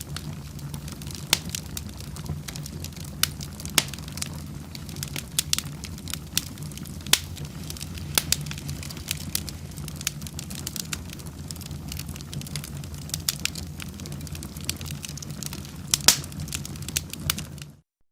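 Wood fire burning in a fireplace, crackling with frequent sharp pops and snaps over a steady low rumble. The sound cuts off abruptly near the end.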